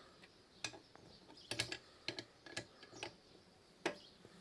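Ratchet wrench with a 14 mm socket clicking in short, irregular bursts as a freshly loosened brake caliper bolt is worked out.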